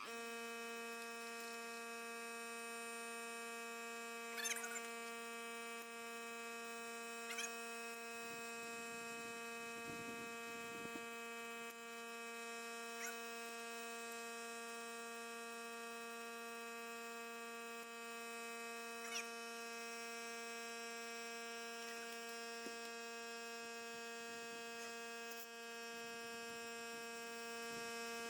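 A steady, even hum with many overtones that holds one pitch throughout, with a few faint clicks.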